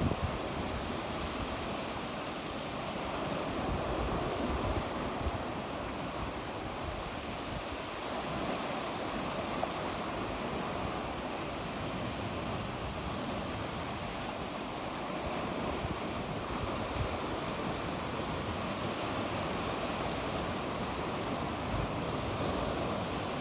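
Sea waves breaking and washing on the shore in a steady, even rush, swelling gently now and then, with some wind on the microphone.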